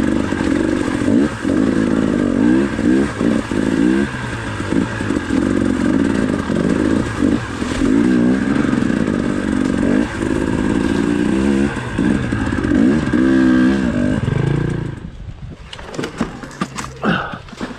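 Dirt bike engine running under load, its revs rising and falling unevenly as it works over rough ground. About fifteen seconds in the engine sound drops away, leaving scattered clicks and knocks.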